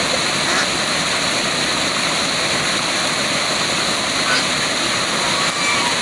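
Waterfall rushing steadily, an even, unbroken hiss of falling water, with a few faint short chirps over it in the second half.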